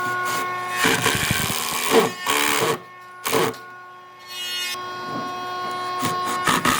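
An electric power tool running with a steady whine, with rougher noisy stretches as it works the wood. It drops away for about a second and a half midway, then runs again.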